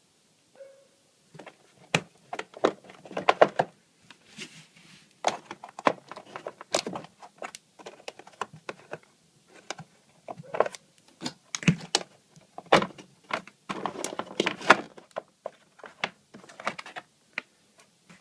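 Irregular clicks, knocks and rattles of hard parts being handled, coming in quick clusters with short pauses between them.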